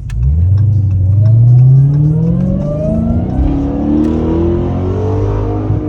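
Dodge Charger Hellcat's supercharged 6.2-litre HEMI V8 at hard acceleration. The engine note climbs steeply through the gears, its pitch dropping back at each upshift and rising again.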